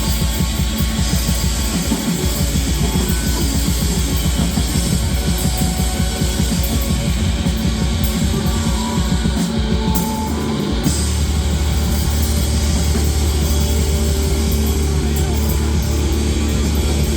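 Live rock band playing loud, with drum kit and electric guitar and no singing. Fast, dense drumming runs for about the first ten seconds, then gives way to a steady low drone.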